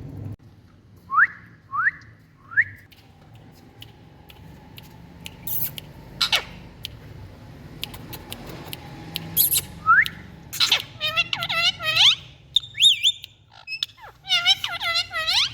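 Indian ringneck parrot calling: three short rising whistles, then a few sharp shrieks, then runs of fast, wavering warbled notes about two-thirds of the way in and again near the end, over a steady low background hum.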